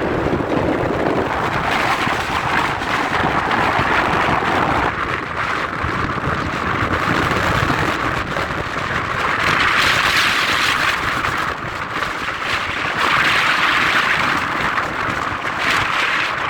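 Aircraft jet engine noise, a loud steady rushing that swells twice, once about ten seconds in and again a few seconds later.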